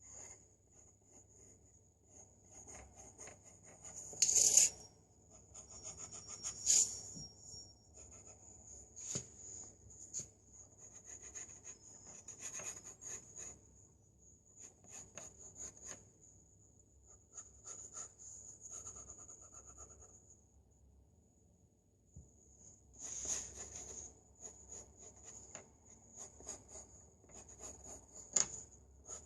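Pencil scratching and rubbing on paper in irregular sketching strokes, louder for a moment about four seconds in and again past the twenty-second mark, over a faint steady high whine.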